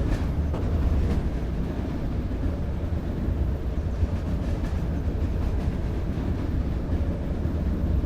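Train running on the track: a steady low rumble with faint clicks here and there.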